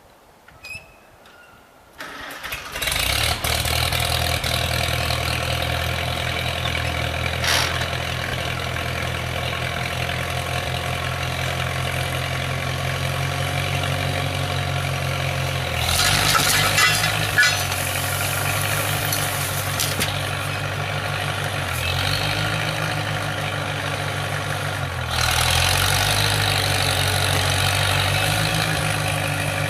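1942 Farmall H tractor's four-cylinder gasoline engine starts about two seconds in and keeps running steadily. Its note changes several times in the second half, with a burst of rattling and a louder stretch near the end.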